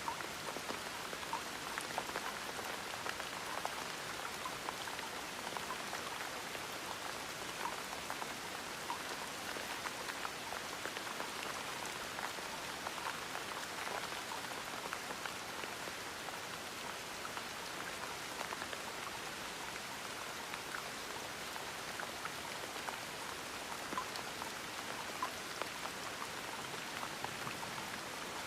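Gentle rain falling steadily, an even patter with scattered individual drops ticking throughout.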